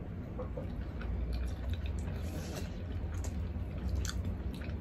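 Close-up chewing and wet mouth sounds of people eating stewed pork hock and rice with their hands, with many small lip-smacking clicks over a steady low hum.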